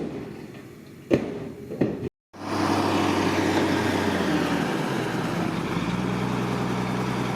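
A few sharp clanks, then after a sudden brief dropout a heavy diesel engine of construction machinery running steadily. Its low note steps up slightly about six seconds in.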